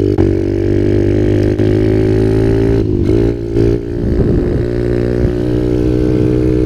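Kawasaki KLX 110L's small single-cylinder four-stroke engine, fitted with a Pro Circuit aftermarket exhaust, running under way as the pit bike is ridden. The note is steady, breaks briefly about three seconds in, then picks up again, as in a gear change.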